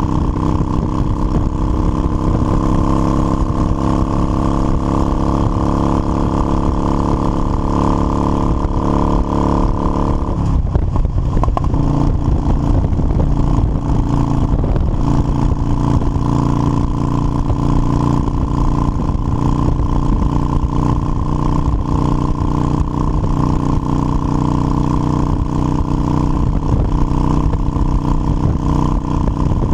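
Motorcycle engine running steadily under way. About ten seconds in its note changes abruptly, then holds steady again.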